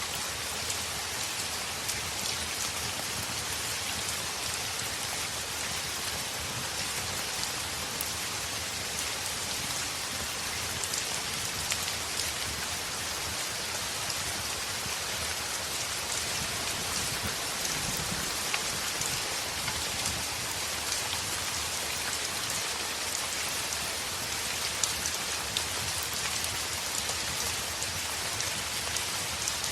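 Heavy rain falling steadily on a window: a dense, even hiss flecked with many small sharp ticks of drops striking.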